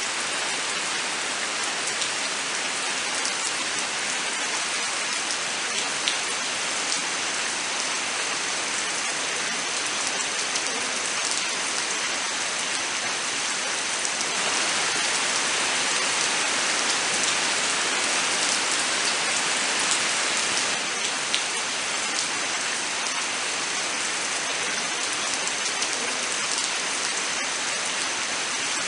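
Steady rain falling in a forest: a dense, even hiss of rain, with scattered sharper drop ticks. It swells a little louder partway through.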